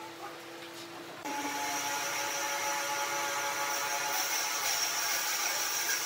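Power tool whirring steadily on wood, becoming suddenly louder and higher about a second in.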